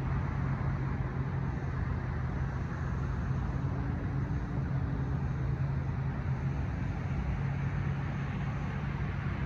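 A steady low engine hum over a continuous rumble, with no sudden events.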